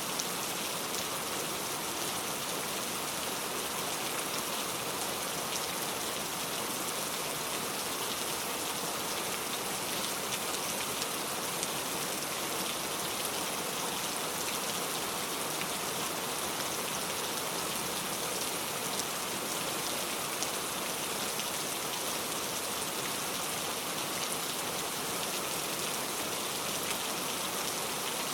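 Heavy rain falling steadily, an even hiss with scattered drop ticks on surfaces.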